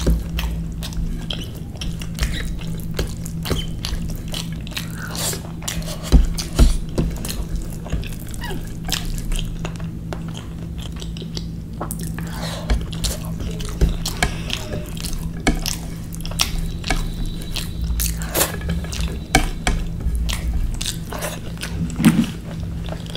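Close-miked eating mouth sounds: wet chewing and lip smacks with many small sharp clicks, over a steady low hum.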